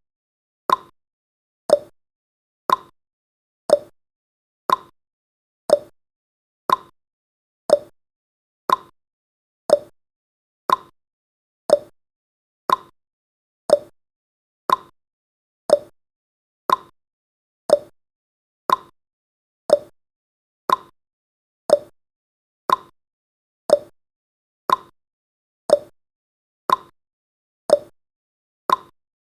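Clock-ticking sound effect of a countdown timer: one sharp tick a second, evenly spaced, alternating a higher and a lower tick like a tick-tock.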